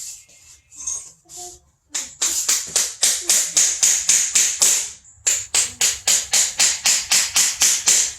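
Hammer driving a nail into a wooden piece: a few light taps, then fast, steady blows at about four a second, with a short pause about five seconds in.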